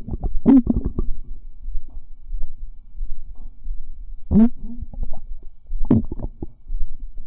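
Human stomach gurgling and bubbling, recorded close to the belly: a low rumble throughout, with three louder gurgles near the start, about four and a half seconds in and about six seconds in.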